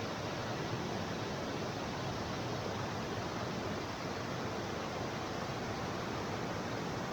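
Waterfall: falling water making a steady, even rushing.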